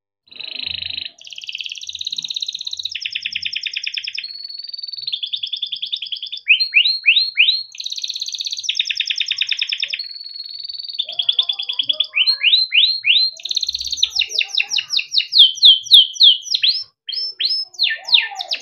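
Domestic canary (kenari) singing a long, unbroken song. Rapid trilled rolls alternate with runs of quick downward-sweeping notes, repeated several times a second. This is the kind of long rolling song used as a master recording to teach young canaries.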